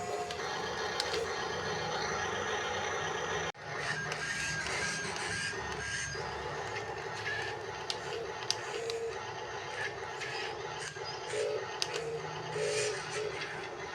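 Small electric motors and gearing of radio-controlled construction models working: a steady whir with a whine that shifts in pitch, and scattered clicks and rattles. It cuts out for an instant about three and a half seconds in.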